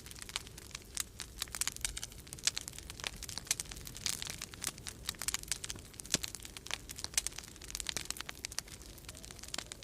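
Wood fire crackling in a fireplace, with dense, irregular pops and snaps, over a low, steady rumble of storm wind.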